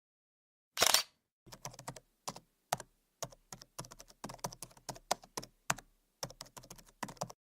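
Typing on a keyboard: quick, irregular runs of sharp key clicks, after one louder clatter about a second in.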